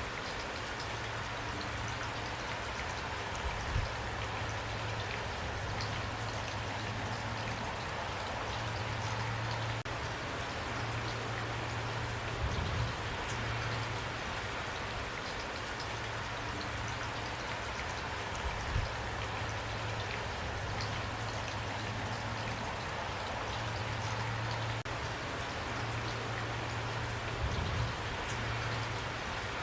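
Steady rain falling, drops hitting a surface, with a few brief low thumps spread through.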